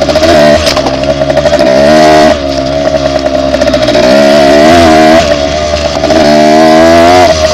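Dirt bike engine revving under way, very loud, its pitch climbing and falling back about four times as the throttle is opened and eased.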